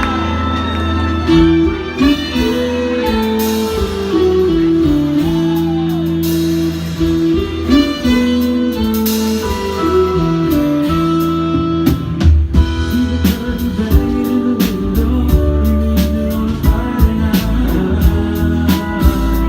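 Live band playing a song intro: a stepping melodic line over sustained bass, with the drums coming in on a steady beat about twelve seconds in.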